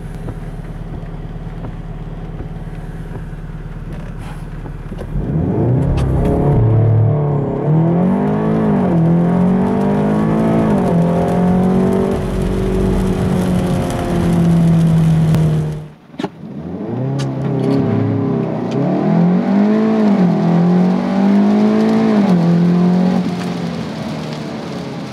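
SEAT Leon Cupra's turbocharged 2.0 TSI four-cylinder held at steady revs on launch control, then launching and accelerating hard, its pitch rising and dropping with each quick gear change. The sound cuts off sharply partway through, then a second launch climbs through the gears again before easing off near the end.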